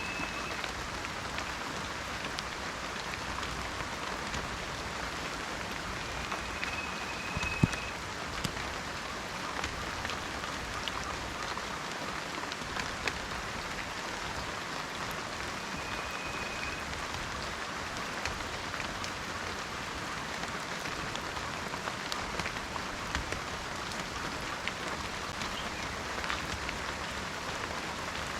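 Steady rain falling in a forest, a dense patter with single drops ticking and one louder drop about a quarter of the way in. A bird gives a short, high whistled note a few times.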